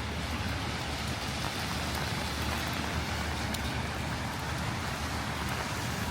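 Heavy rain falling in a steady hiss, with a low rumble of road traffic underneath and a few faint drop ticks.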